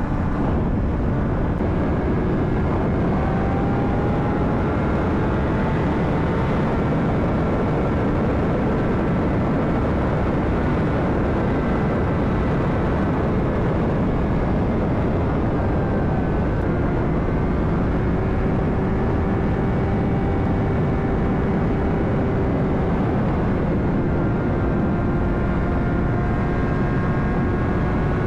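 Honda CBR600RR's inline-four engine running at a steady cruise, its pitch drifting gently up and down, under heavy wind noise rushing over the helmet mic.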